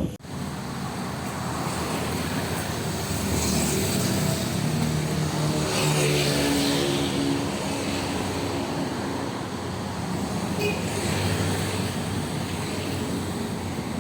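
A motor engine passing by over a steady rumble of traffic, its engine note loudest about six seconds in.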